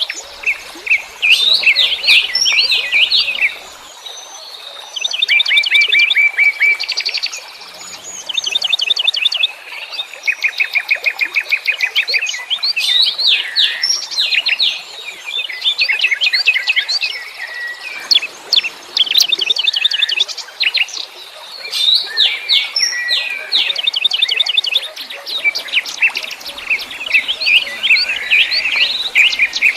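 Wild songbirds singing and chirping, several at once, with fast rattling trills and quick repeated chirps in phrases that follow one another with short gaps.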